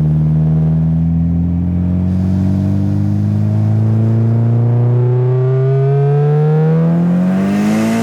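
Turbocharged SR20DET four-cylinder engine of a 1996 Nissan 200SX running in gear under way. Its revs hold steady at first, then climb smoothly over the last few seconds, with a hiss joining near the end.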